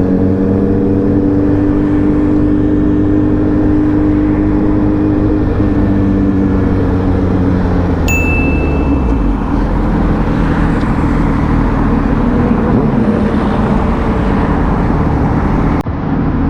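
Motorcycle engine under way, its note falling steadily as the bike slows over the first several seconds, then running steadily under a growing rushing noise. A short high electronic beep sounds about eight seconds in.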